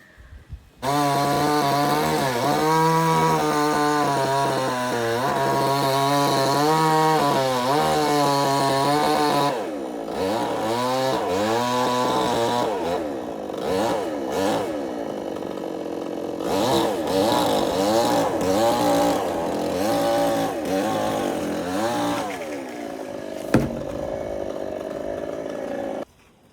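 Chainsaw running at high revs while cutting, its pitch wavering up and down as the load changes. After about nine seconds it runs lower and more unevenly, with one sharp click near the end, and it cuts off abruptly.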